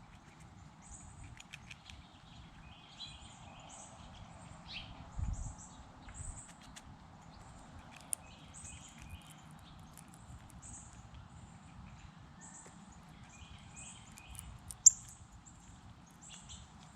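Small songbirds chirping: short high notes repeated every half second to a second, with a few brief twittering calls between them. A sharp click near the end.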